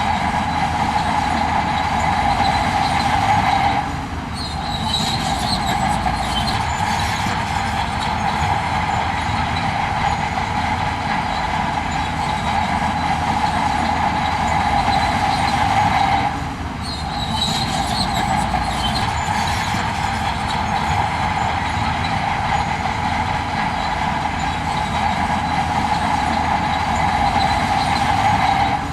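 Heavy construction machinery running: a steady engine drone under a metallic squealing whine. The same stretch of sound repeats about every twelve seconds, with a brief dip in level at each restart.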